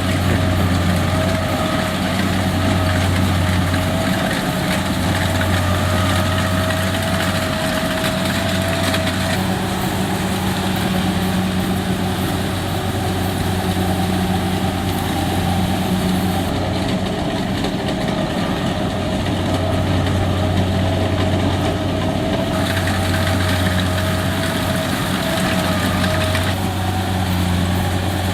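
Rice combine harvester running steadily under load: a continuous engine drone with a thin steady whine above it.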